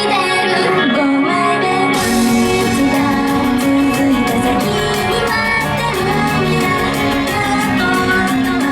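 Upbeat J-pop idol song, with female voices singing over the music; the drums and full band come in about two seconds in.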